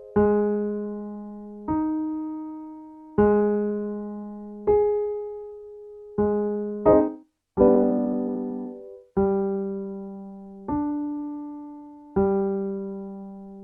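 Piano playing single low notes and octaves for a vocal warmup. Each note is struck and left to ring and fade, about one every second and a half, moving between a low note, the note a fifth above and its octave. Near the middle, two quick chords lead the pattern to a slightly lower key, and it starts again.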